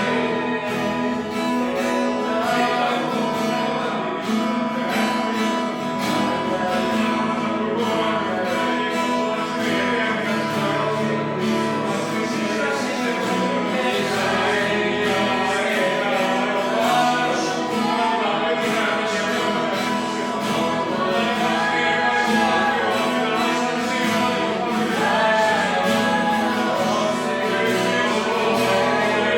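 Worship song: voices singing over a strummed acoustic guitar, steady throughout.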